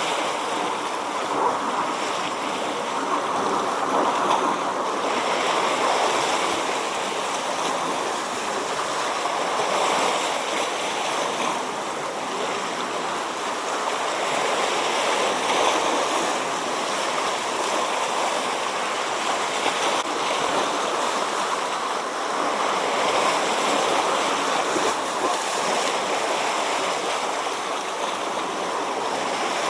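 Sea waves breaking and washing ashore: a continuous rush of surf that swells and eases every few seconds.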